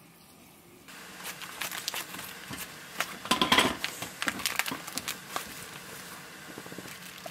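Irregular clicks, knocks and crackling, like hard objects being handled, densest about three seconds in.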